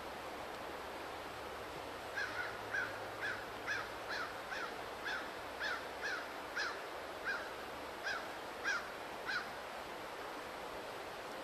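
A bird calling a run of about fifteen short notes, each dropping in pitch, about two a second, starting a couple of seconds in and stopping a couple of seconds before the end.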